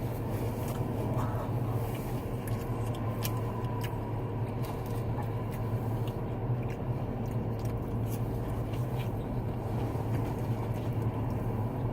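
Someone chewing fried mushrooms, with scattered small clicks and crunches, over a steady low hum.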